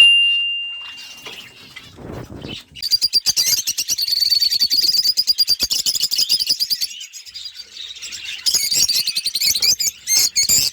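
Many small cage birds chirping rapidly together in high, fast twitters, swelling about three seconds in and again near the end. It opens with one loud, sharp ringing ping that dies away over a second or so.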